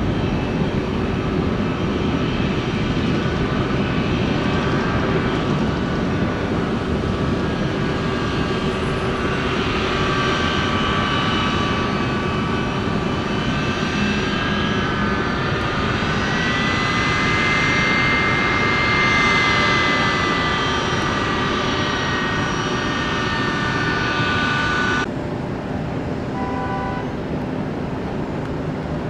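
Aircraft engines whining steadily as a plane passes, the whine rising and then falling in pitch in the middle. The sound cuts off suddenly near the end, leaving a quieter hum.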